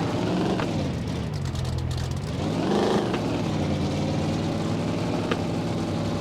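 Car engine being revved: the pitch rises and falls about half a second in, rises higher to a peak near three seconds, then settles to a steady run.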